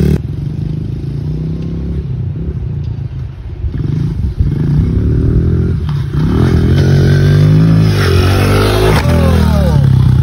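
Small Honda four-stroke pit bike engine revving up hard, its pitch rising for several seconds before dropping near the end. The bike is accelerating into a jump a little too fast, so it overshoots.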